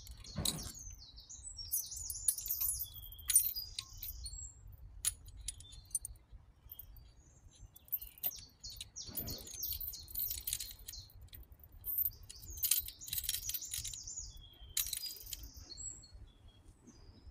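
Small birds chirping and singing in short repeated phrases, with occasional light clinks and rattles.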